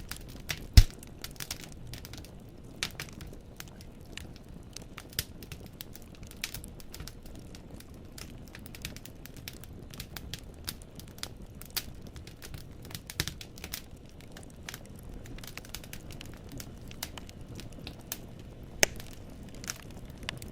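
Wood fire burning in a fireplace, with logs crackling and snapping in irregular pops over a low steady rumble of the flames. One sharp loud pop comes about a second in, and another just before the end.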